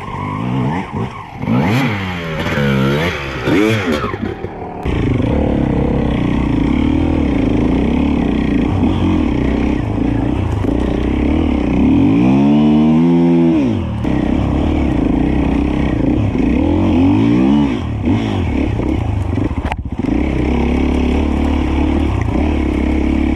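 Enduro dirt bike engine revving up and down as it rides a rough woodland trail. There are several quick blips in the first few seconds, then a steadier, fuller engine note about five seconds in. A big rev rises and falls about halfway through.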